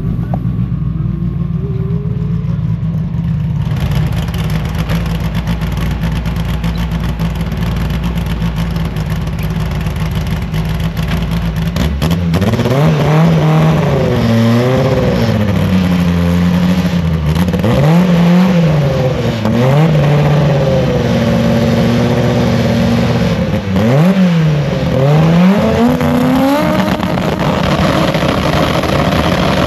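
Twin-turbo 5.0 Coyote V8 Mustang idling steadily, then revved in a series of blips from about halfway through, the engine note rising and falling several times. Near the end the revs are held higher.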